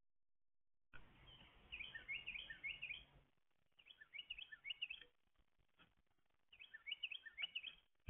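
A small songbird singing three short phrases of quick, high chirping notes, a second or so apart.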